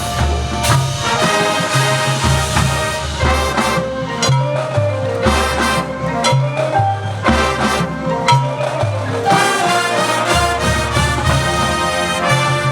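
High school marching band playing a brass-led tune over drums, with a repeating low bass pattern.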